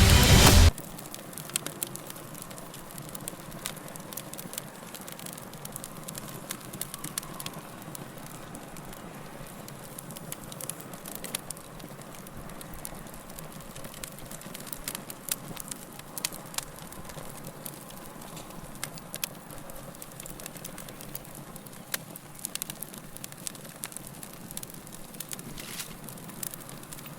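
Wood log fire crackling, a steady low hiss broken by frequent sharp pops and snaps of burning wood. A burst of music cuts off suddenly under a second in.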